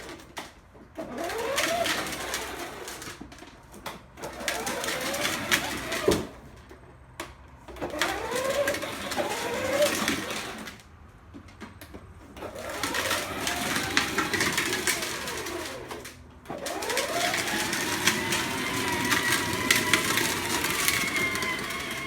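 2017 Acura ILX on a test drive after a front brake pad change: a car whine and road noise rise and fall in pitch several times as the car speeds up and slows, with short quiet breaks between runs and a steadier stretch near the end.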